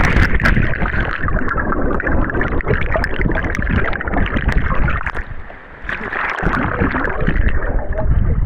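Fast-flowing waterfall stream water rushing and splashing close to the microphone, with a heavy low rumble. A few sharp knocks come right at the start, and the rush dips briefly about five seconds in before coming back.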